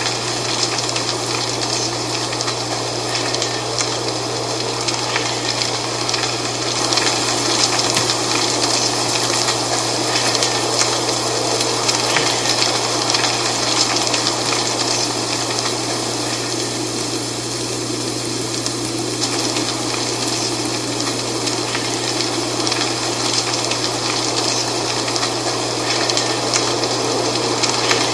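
Dry autumn leaves rustling and crackling in a steady wind, making a continuous dense hiss. A constant low hum runs underneath.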